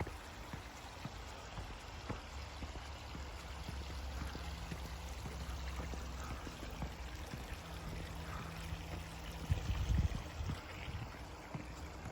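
Steady rush of running water from a small stream, with scattered light knocks and a brief low rumble about ten seconds in.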